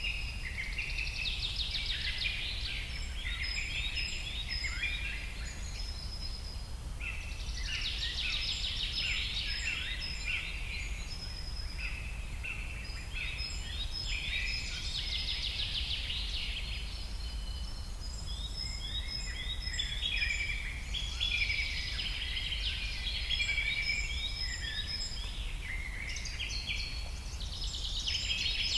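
Wild songbirds singing outdoors, overlapping chirps and trills that swell in repeated bursts every several seconds, over a steady low rumble.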